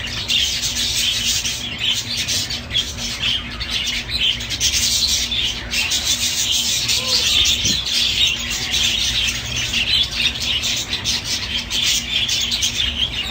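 A flock of pet cage birds calling all at once: a dense, continuous chatter of many short, high chirps overlapping without a break.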